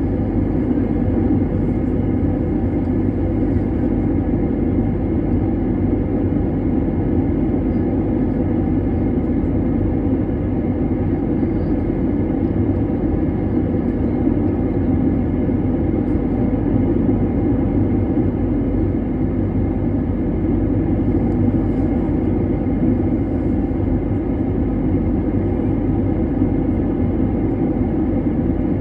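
Airplane engine and airflow noise during a landing, a steady low drone that holds even without rising or falling.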